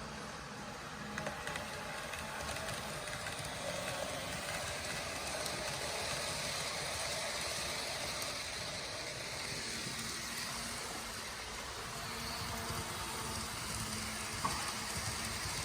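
N scale model of an EMD GP18 diesel locomotive running along the track: the steady whir of its small motor and wheels on the rails, with a single click near the end.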